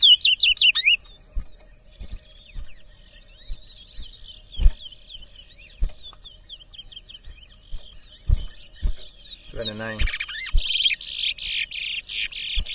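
Towa-towa (chestnut-bellied seed finch) song in a bird-singing race: a quick run of rising whistled notes at the start, scattered softer chirps, then a loud, rapid burst of song from about ten seconds in. A few short low knocks sound underneath.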